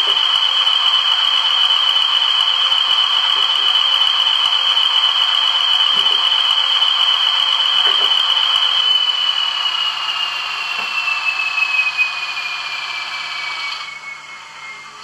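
Howes Models Class 20 sound decoder in a Bachmann model locomotive playing an English Electric diesel engine through the model's small speaker: the engine and high turbocharger whine run steadily, then the whine falls slowly in pitch and the engine noise fades and drops off sharply near the end, as in a shutdown with the turbo running down.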